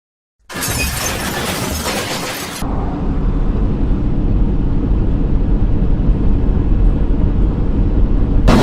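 Dash-cam recording of vehicle noise: a loud, harsh rush of noise starts suddenly about half a second in. After an abrupt change about two seconds later, a steady low rumble of engine and road noise follows, with another harsh noisy burst near the end.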